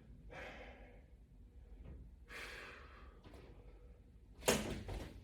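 Two soft, breathy exhalations from a man exercising, then a sharp knock near the end.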